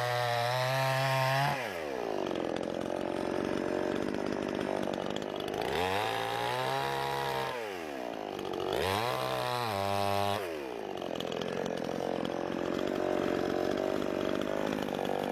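Budget 18-inch two-stroke gas chainsaw running, revved up to full throttle three times with lower, rougher stretches between as it cuts through a thin log.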